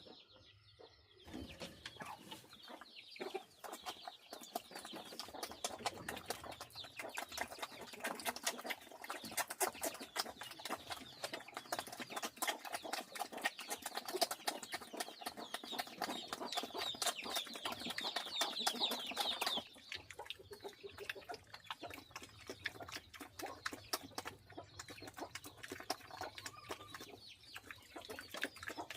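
Chickens clucking as they feed, over a dense, rapid clicking of beaks pecking at scattered feed that stops about twenty seconds in, leaving softer clucking.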